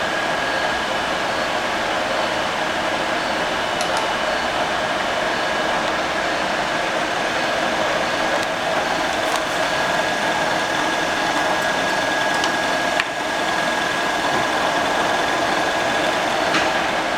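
Tree vertical knee mill running under power: a steady mechanical whir with a constant high whine from the spindle drive. There is a brief click about 13 seconds in.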